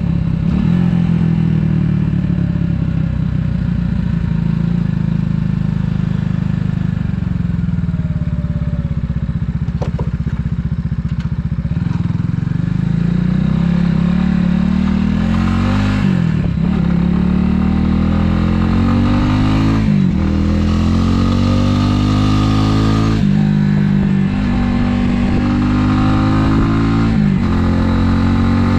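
Italika 250Z motorcycle's single-cylinder engine running at steady, easing revs, then accelerating through the gears. The revs climb and drop sharply at each of about four upshifts.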